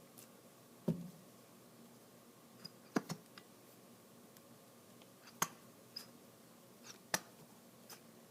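A handful of light clicks and taps, a second or two apart, from craft materials being handled while glitter glue is brushed onto a vase.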